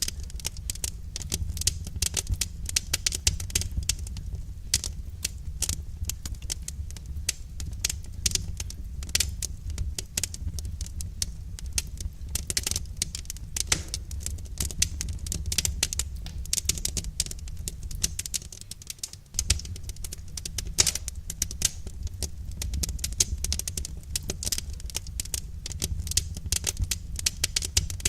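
Wood fire crackling: dense, irregular snaps and pops over a low, steady rumble.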